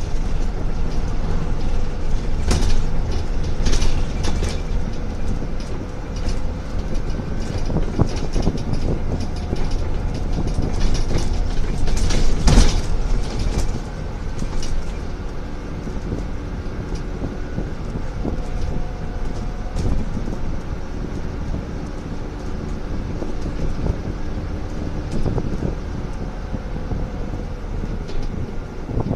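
Inside a Scania N250UD Enviro400MMC double-decker bus on the move: steady engine and road rumble, with interior fittings rattling and knocking. There is a loud knock about twelve seconds in.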